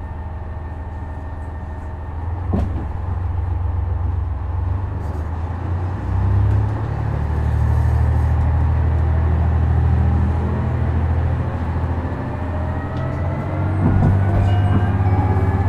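Interior of a KiHa 126 diesel railcar: the diesel engine idles, then throttles up about two and a half seconds in with a knock, and the railcar pulls away. Near the end a whine from the drive rises steadily in pitch as it gathers speed.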